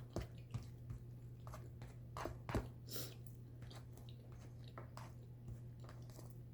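Faint close-up chewing and biting of oven-baked turkey pot pie, with a few sharper crunches of its crisp crust, the loudest about two to three seconds in, over a low steady hum.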